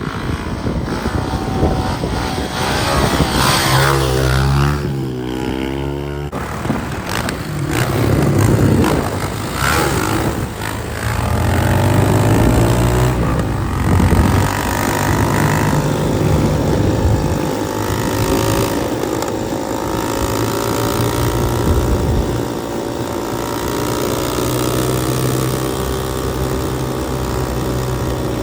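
Motorcycle engine under way, revving up and easing off, its pitch climbing several times as it accelerates, over a steady rushing noise.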